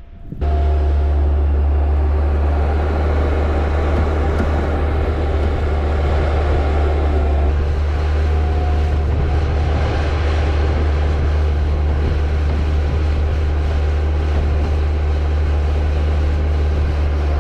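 Vehicle engine running steadily, a loud low drone that comes in abruptly just after the start.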